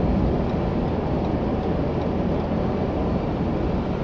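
Steady low road and engine noise heard inside the cab of a Ford Raptor pickup on the move.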